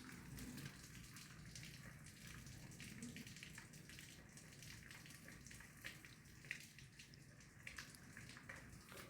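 Near silence: quiet room tone with a faint low hum and scattered small ticks and taps.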